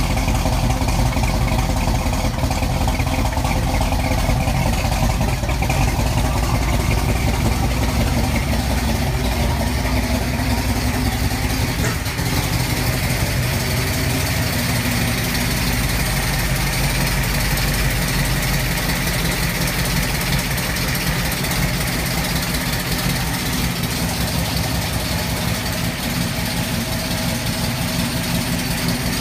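Ford 306 small-block V8 in a Fox-body Mustang, with a Z303 cam, long-tube headers and Flowmaster 40 mufflers, running steadily at idle with a misfire. The uploader traced the misfire to a badly wired mass airflow sensor.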